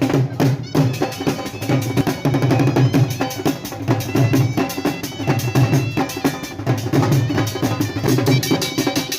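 Dhol drums beating a fast, steady rhythm, with a high piping melody over it.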